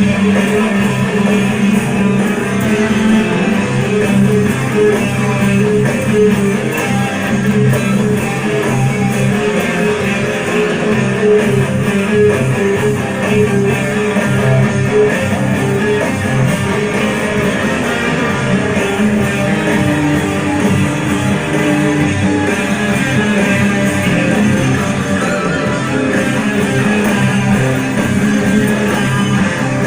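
Guitar music playing steadily without vocals: a plucked and strummed guitar instrumental stretch of an original song.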